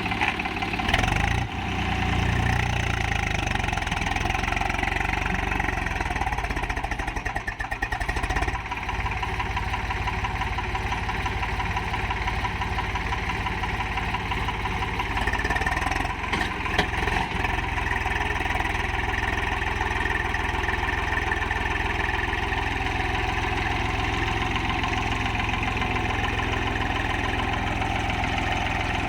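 Tractor's diesel engine running steadily, with brief clatters about a second in, around eight seconds and around seventeen seconds.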